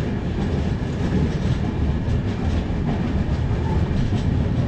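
Passenger train coach running along a station platform, a steady rumble of wheels on the track with a few faint clicks now and then.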